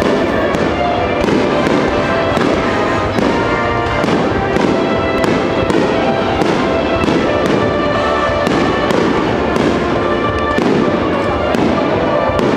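Star-mine fireworks barrage: a dense, continuous roar of bursts and crackle, with sharp reports coming about every half second.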